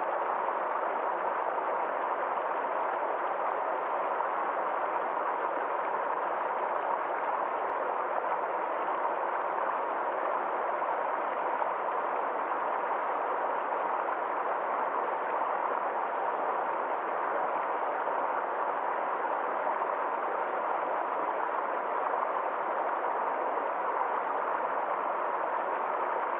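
Small forest stream flowing: a steady, even rush of water that holds the same level throughout.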